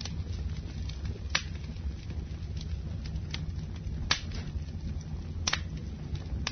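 Campfire burning: a steady low rumble of the flames with scattered sharp crackles and pops of burning wood, the loudest pops about four seconds in and again about a second and a half later.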